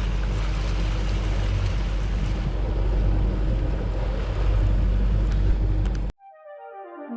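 Motorboat engine running steadily with wind and water noise. It cuts off abruptly about six seconds in, and music with a horn-like melody takes over.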